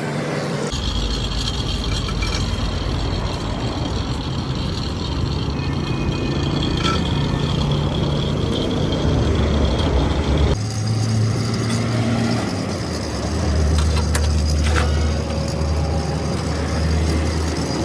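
A large engine or machine running with a steady low drone. The drone's pitch and tone change abruptly twice, about a second in and about ten and a half seconds in.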